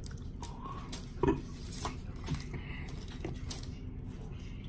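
Close-up eating sounds of someone eating ribs: scattered short smacks and clicks over a steady low hum, with one louder smack about a second in.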